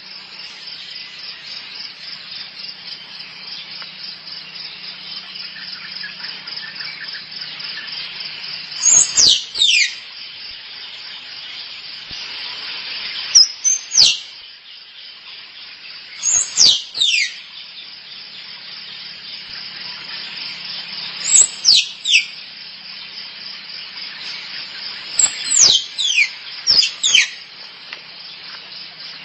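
Squirrel mating calls: sharp, high squeaks that fall steeply in pitch, given in quick runs of two or three, five times, over a steady chirring of insects.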